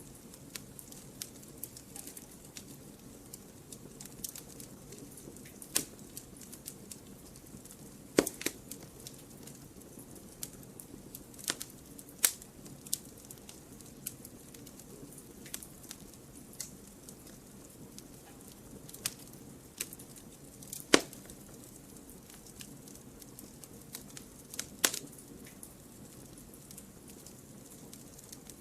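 Wood fire burning in a fireplace: a steady low hiss of flame with frequent sharp crackles and pops, a handful of them much louder than the rest.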